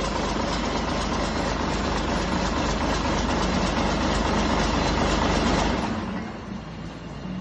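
DAF XF315 ZDE straight-six diesel engine running steadily, then its sound drops off sharply about six seconds in, leaving a quieter hum.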